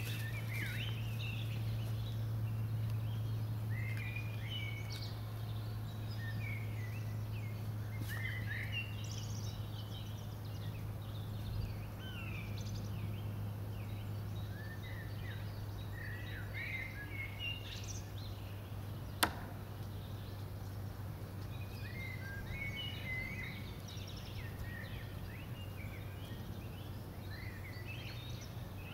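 Small birds chirping and calling on and off over a steady low hum, with one sharp click about two-thirds of the way through.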